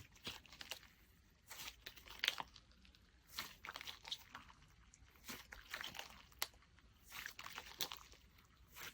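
Slime being squeezed and poked by hand, giving soft crackling clicks and pops in bursts every second or two.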